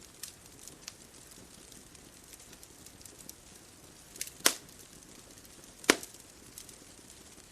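Wood fire crackling: scattered small ticks over a faint steady hiss, with two loud sharp pops about four and a half and six seconds in.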